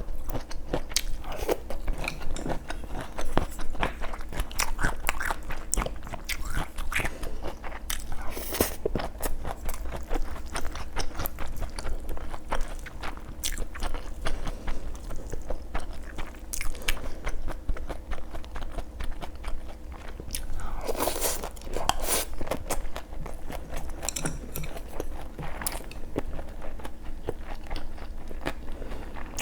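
A person eating close to the microphone: steady chewing with crunchy bites and wet mouth clicks.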